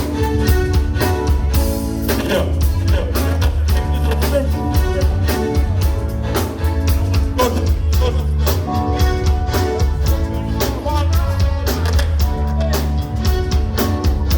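Live blues band playing an instrumental stretch, with drum kit, bass and guitar keeping a steady groove.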